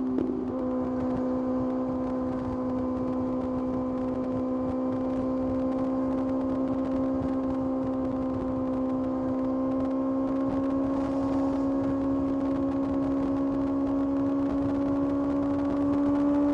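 Kawasaki ZX-6R's inline-four engine running at a steady cruise, its note creeping slowly higher as the bike gently gains speed.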